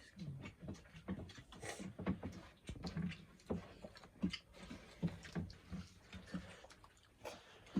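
People eating rice and curry by hand: chewing and lip-smacking with irregular soft clicks and taps, several a second.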